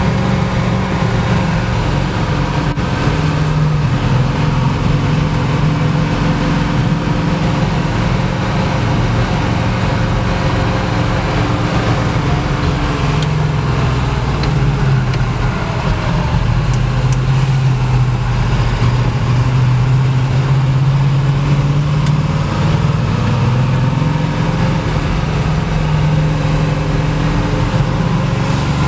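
Chevrolet Nova SS engine running while the car cruises at low speed, heard from inside the car; its steady low hum rises and falls a little in pitch as the throttle changes.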